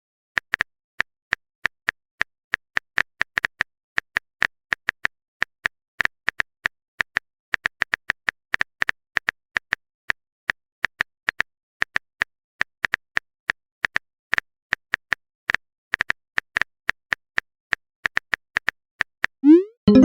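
Rapid, irregular clicks of a phone keyboard typing sound effect, about four a second, with a short rising pop near the end.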